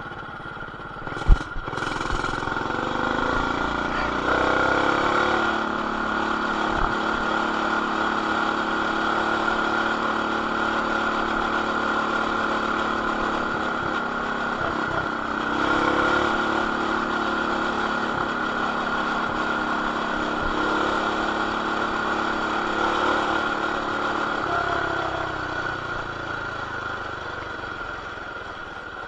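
BT200X mini bike's small single-cylinder engine with an aftermarket header and RLV exhaust running under way, heard through an action camera's plastic case. A sharp knock comes about a second in, then the engine revs up and holds steady, picks up again midway and eases off near the end.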